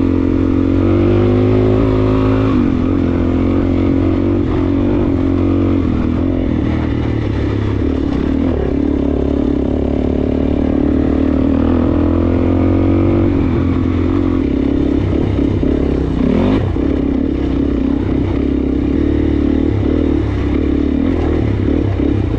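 Suzuki DR-Z400S single-cylinder four-stroke engine running as the dirt bike is ridden along a trail, the revs dipping and climbing several times with throttle and gear changes.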